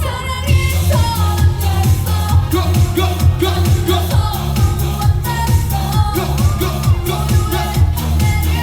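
Korean dance-pop song performed live over a PA: a singer's voice over a loud backing track with a heavy, steady bass beat.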